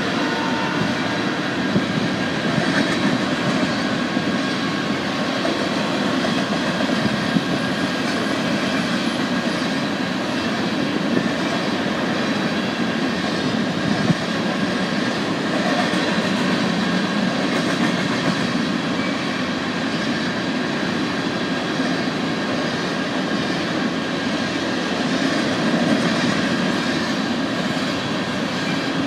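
BNSF freight train of covered hopper cars rolling past at a grade crossing: a steady rumble of steel wheels on rail, with a few sharp clacks as wheels cross rail joints.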